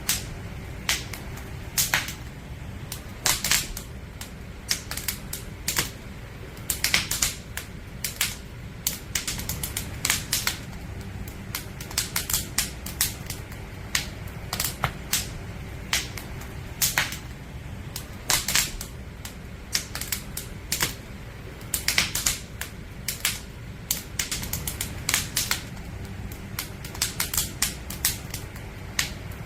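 Wood campfire crackling: burning firewood gives off irregular sharp pops and snaps, several a second in clusters, over a steady low rumble.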